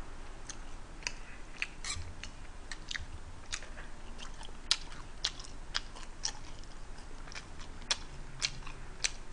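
A person chewing a mouthful of tteokbokki rice cakes and fried chicken close to the microphone. The wet mouth clicks come irregularly, about two a second.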